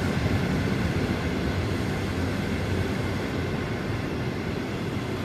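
EP07 electric locomotive moving during shunting, a steady low rumble of the locomotive and its wagons that slowly fades.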